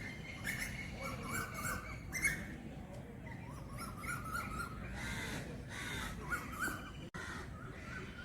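Birds calling: short, repeated calls with high, thin chirps above them, over a faint steady background.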